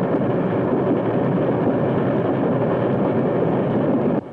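Steady, even rumble of a moving train. It cuts off abruptly just before the end, dropping to a quieter background.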